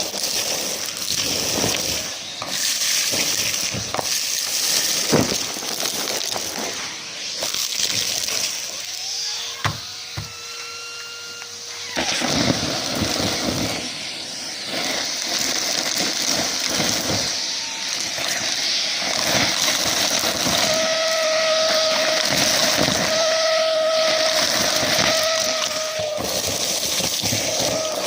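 Numatic James canister vacuum running and sucking up a crunchy mess, with continual crackling and rattling of debris going up the hose. A whistling tone comes and goes near the middle and again in the second half.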